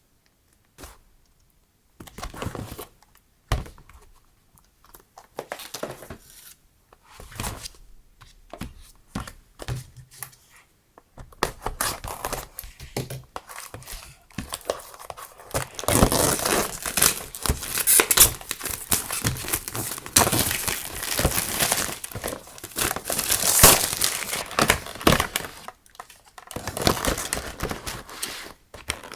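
Light handling noises, then packaging being unwrapped: a long stretch of dense crinkling and tearing starting about 11 seconds in, a brief pause, and more crinkling near the end.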